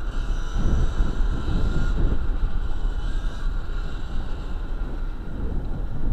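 Wind buffeting the microphone on a moving 2023 Sur-Ron Light Bee X electric dirt bike, over a steady high whine from the bike.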